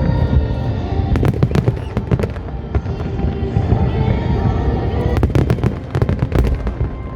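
Aerial firework shells bursting in rapid succession: a dense run of low booms, with clusters of sharp crackles about a second in and again after five seconds, and festival music playing underneath.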